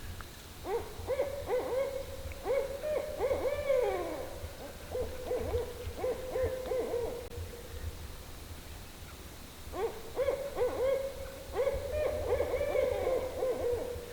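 Owls calling in two bouts: many short hoots that slide up and down in pitch over a held note, with a brief pause between the bouts.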